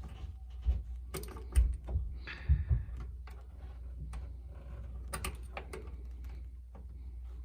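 Scattered clicks and knocks of hands and tools handling small metal parts inside an opened dryer, over a steady low hum.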